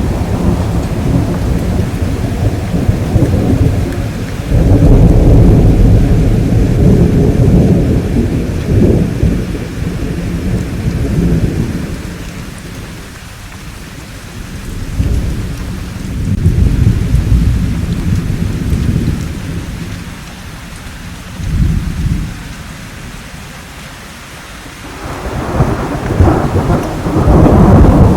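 Thunderstorm: steady rain with rolling thunder rumbling in several long waves, the heaviest about five seconds in and another building near the end.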